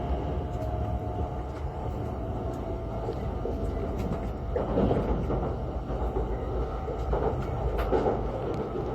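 E5 series Shinkansen train running: a steady low rumble and rush, with louder surges about halfway through and again near the end.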